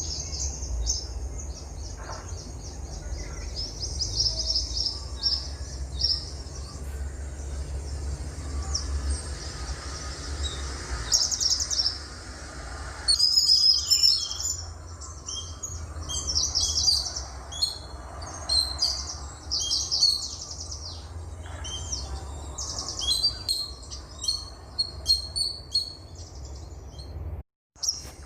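Several songbirds singing at once: fast chirps and rapid trills, busiest in the second half, over a steady low rumble. The sound cuts out for a moment near the end.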